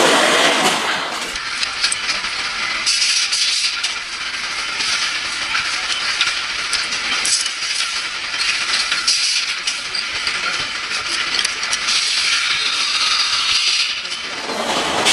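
Factory floor noise: a steady hiss with many small metallic clinks and clicks.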